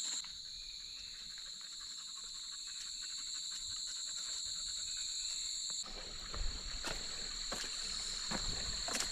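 Insect chorus: a steady, shrill high-pitched buzz held on two high tones, with a few faint knocks in the second half.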